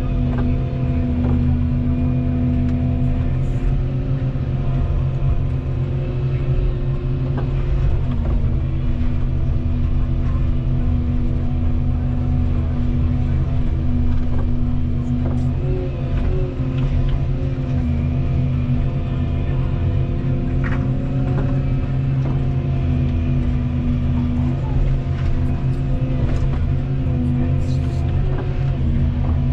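Volvo 235EL excavator's diesel engine running steadily, its pitch dipping briefly a couple of times, with a few faint clicks and knocks over it.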